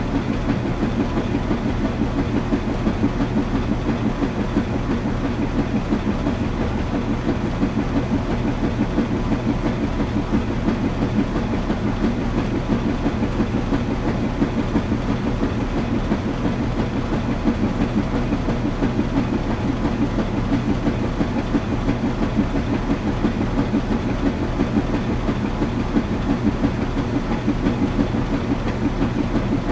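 Washing machine running: a steady low hum with a fast, even pulsing churn from the turning drum.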